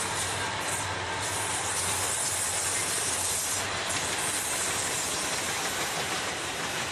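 Freight train passing at speed: the low hum of the trailing diesel locomotives in the first second or so gives way to the steady wheel-on-rail noise and high hiss of covered hopper cars rolling by.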